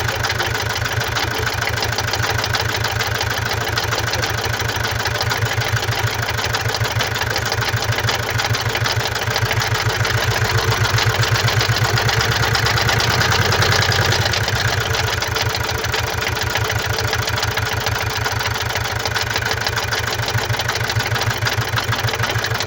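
2017 Mazda CX-5's 2.2-litre diesel engine running steadily with a rapid, even pulsing, a little louder around the middle. The noise comes from defective injectors and a defective mass airflow sensor.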